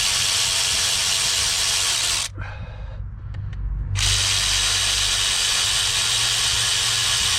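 Handheld power tool running steadily as it spins out engine bolts. It stops a little over two seconds in, a few light clicks follow, and it starts again about four seconds in for a second long run.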